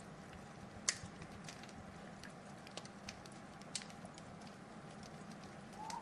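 Wood fire crackling over a steady hiss, with scattered sharp pops, the loudest about a second in.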